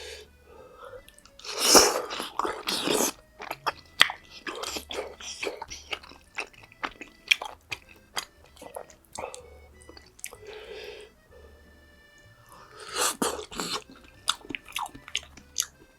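A person chewing and biting food close to the microphone, with many small wet clicks and two louder, longer bursts of noise about two seconds in and near the end. Background music runs underneath.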